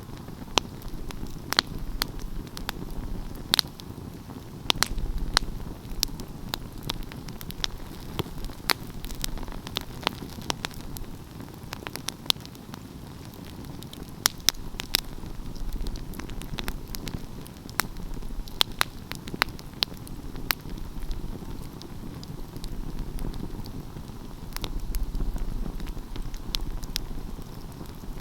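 Wood fire crackling: irregular sharp pops and snaps, several a second at times, over a low steady rumble of the flames.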